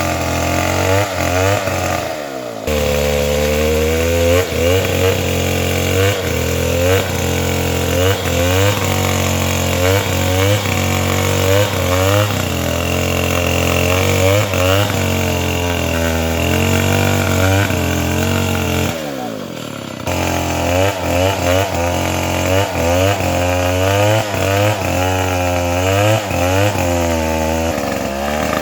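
Chainsaw running during tree felling, its engine pitch rising and falling over and over as it cuts. The sound drops briefly twice, about two seconds in and again about two-thirds of the way through.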